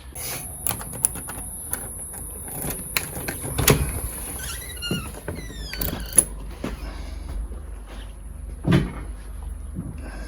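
A door being unlatched and opened, with a run of sharp clicks and knocks, a brief squeak, and a heavier thud near the end. A steady high whine sounds throughout.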